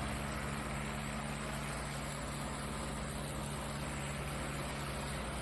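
Diesel tractor engine running steadily at a distance: a low, even hum with no change in pitch.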